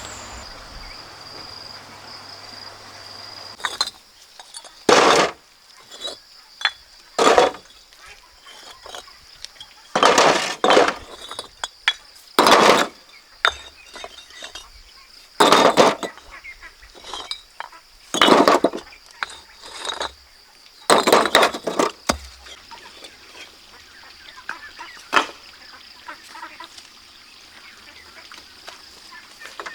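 Stones clinking and scraping as they are handled in building work, in about seven loud strokes two to three seconds apart with smaller knocks between. A steady high thin hum runs behind.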